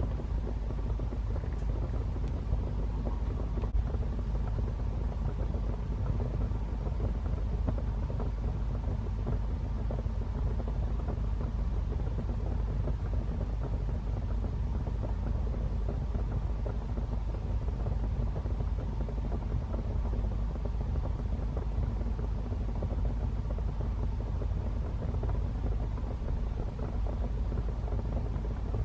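Fire burning in a fireplace: a steady low rumble of flames, with a few faint crackles in the first few seconds.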